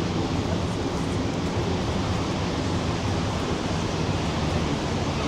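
The Rhine Falls: a steady, loud rush of falling water.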